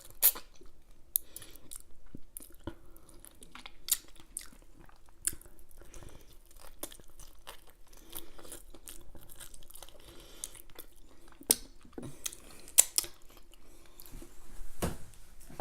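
A person chewing food close to the microphone, with scattered sharp mouth clicks and smacks.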